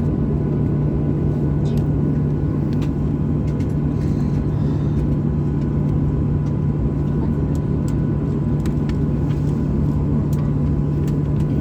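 Steady cabin noise inside a Boeing 737-800 on the ground before takeoff, its CFM56 engines at idle: an even low rumble with a constant hum and a few faint clicks.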